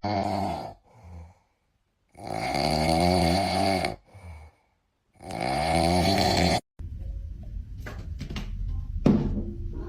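A pet snoring: three long, wavering snores about two and a half seconds apart. Then a few seconds of low, steady noise with faint clicks.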